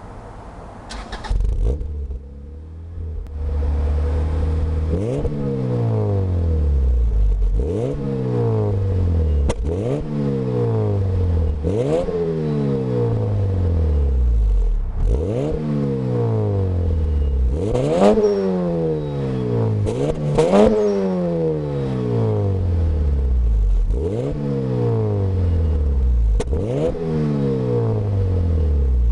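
Honda Integra GSR's 1.8-litre VTEC four-cylinder through an aftermarket MagnaFlow exhaust: after a short burst about a second in and a brief lull, the engine idles, then is free-revved about nine times, each rev climbing sharply and falling back slowly to idle.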